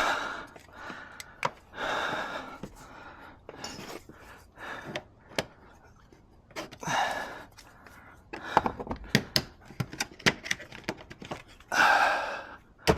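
Car interior trim being taken apart by hand: a run of sharp plastic clicks and knocks in the second half, with several heavy breaths of effort between them.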